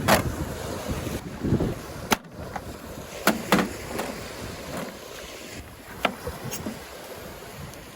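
Knife chopping vegetables on a cutting board: a handful of sharp, irregular knocks over steady wind and surf noise.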